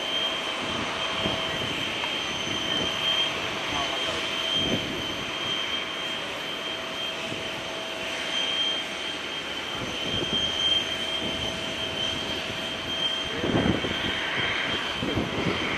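Jet airliner engines whining at low power on the ground, a steady high-pitched tone over a broad rush, with low gusty thumps of wind on the microphone, strongest near the end.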